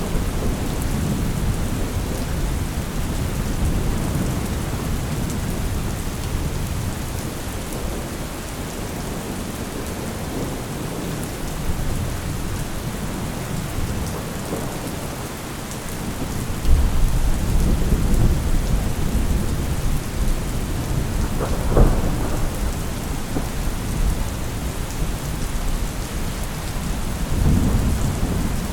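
Thunderstorm: steady heavy rain with rolling thunder, a louder rumble rising past the middle, a sharp crack a few seconds later and another rumble near the end.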